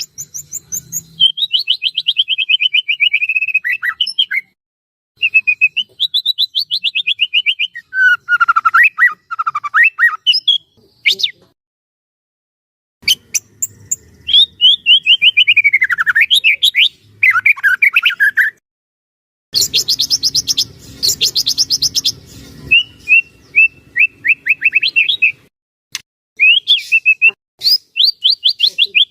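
White-rumped shama (murai batu) singing: phrases of rapid, ringing trills and fast note runs that sweep up and down in pitch, broken by short pauses, with one harsher, scratchier burst about two-thirds of the way through.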